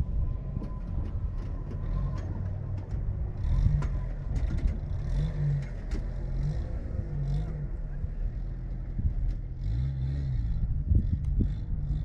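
Triumph Street Scrambler's parallel-twin engine running under way, its revs rising and falling several times, with scattered short knocks and rattles.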